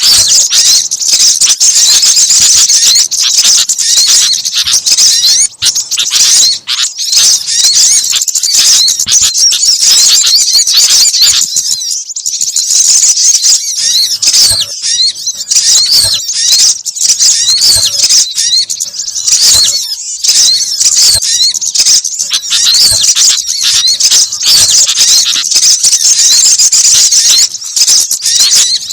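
Loud, unbroken chatter of many high-pitched small-bird chirps and quick whistled glides layered over one another: a bird-luring mix of sunbird, gelatik and sooty-headed bulbul (kutilang) calls.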